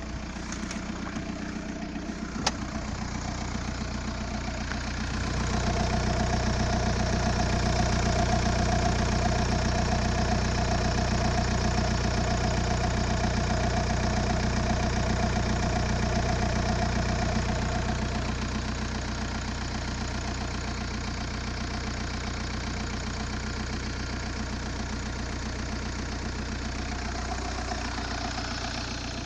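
Car engine running steadily, heard from inside the cabin. About five seconds in the engine grows louder and holds a higher, steadier hum until it eases back a little past the middle. There is a single sharp click about two and a half seconds in.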